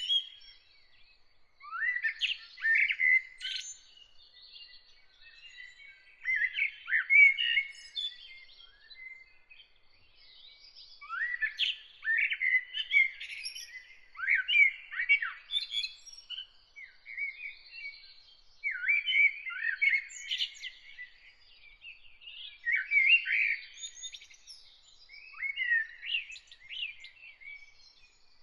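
Songbirds singing in short, rapid warbled phrases, a burst every two to three seconds with brief pauses between.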